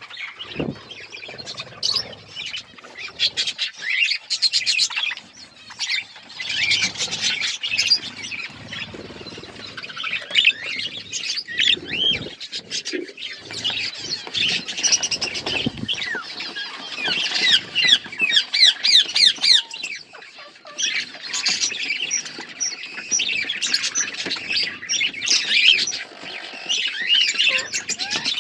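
Budgerigars chattering as a flock: many short, high chirps and squawks overlapping without pause.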